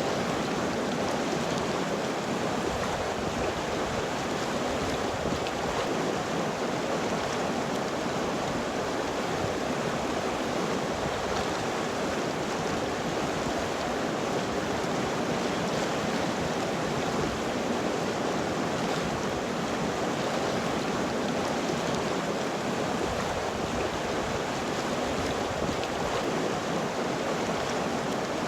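River water flowing steadily over rocks, an even rushing noise with no breaks.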